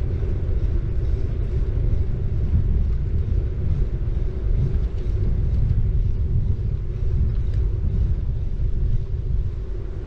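Steady low rumble of a city bike being ridden: tyres rolling on the road and wind on the action camera's microphone, with a constant hum running underneath.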